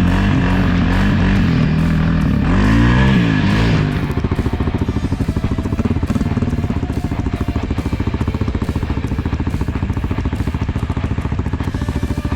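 Dirt bike engine running, revving up and back down about two to three seconds in. About four seconds in it settles into a fast, even pulsing idle.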